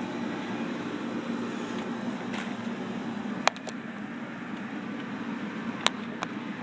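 Steady background hum with a faint low tone, broken by two sharp clicks, one about halfway through and one near the end.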